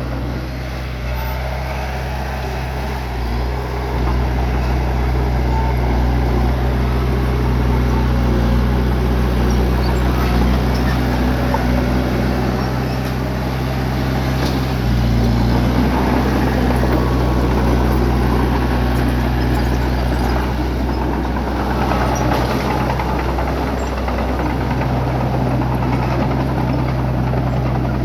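Bulldozer's diesel engine running, a steady low drone that grows louder about four seconds in and shifts in pitch around the middle and again near the end.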